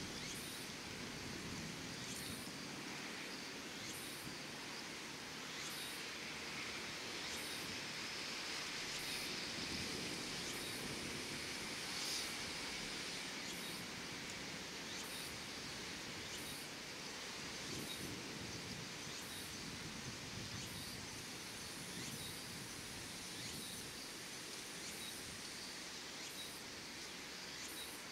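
Outdoor ambience: a steady even hiss with faint, short high-pitched ticks repeating about once a second.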